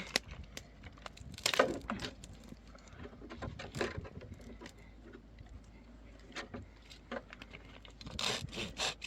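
Irregular clicks, knocks and rustles, the loudest knock about a second and a half in, with a busier cluster of rustling near the end.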